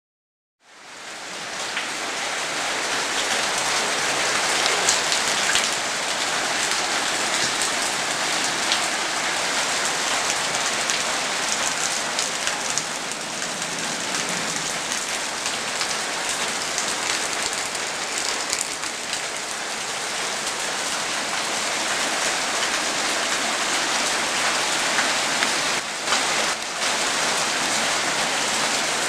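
Heavy rain pouring down in a steady, dense hiss, fading in over the first second or so.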